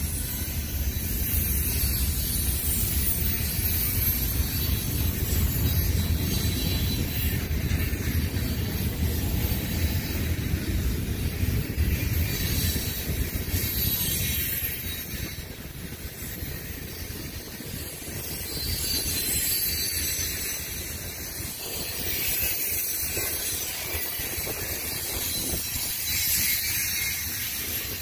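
CSX freight train cars (covered hoppers and tank cars) rolling past on the rails, a steady rumble with a high hiss above it. The low rumble eases off about halfway through.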